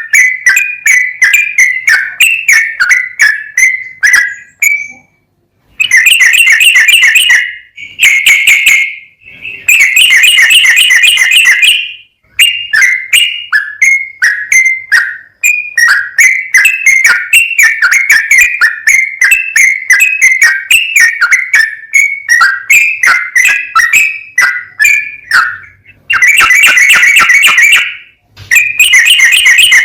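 Sooty-headed bulbul singing: long runs of quick, bubbling whistled notes, broken several times by dense rapid chattering stretches of a second or two, with brief pauses between phrases.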